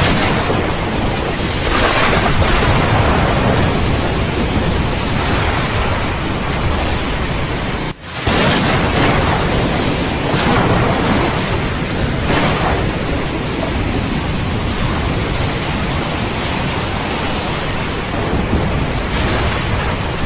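Steady heavy rain with thunder rumbling, the low rumble swelling now and then under the rain. About eight seconds in, the sound drops out for a split second and comes straight back.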